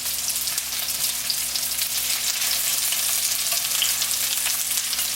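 Breaded chicken cutlets frying in olive oil in a skillet on medium-high heat: a steady sizzle with constant fine crackling.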